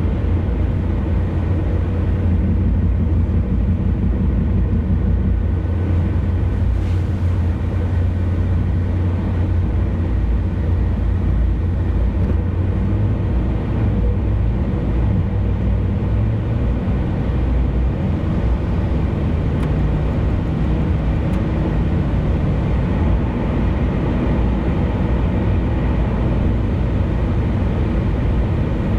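Steady road and engine noise of a car cruising on an expressway: a continuous low rumble that stays even throughout.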